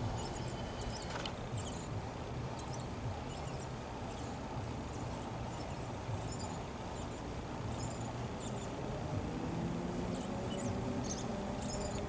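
Small birds chirping in short, high, scattered calls over a steady low rumble. Near the end a low hum starts to rise and grow louder.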